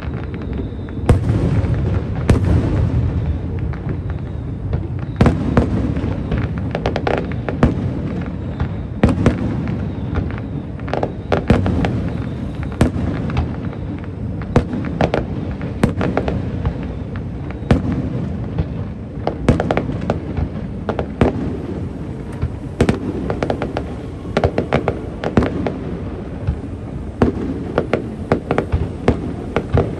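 Aerial fireworks bursting in rapid, irregular succession: many sharp bangs and crackles over a steady low rumble of booms.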